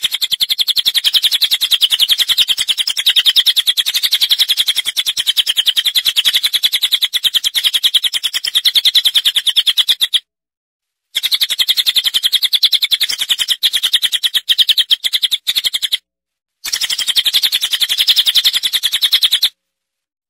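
Small songbird chirping in a fast, even, unbroken run of high notes, a recorded call played as song-tutor audio for training caged songbirds. It breaks off abruptly twice, about ten seconds in and again about sixteen seconds in, and stops abruptly just before the end.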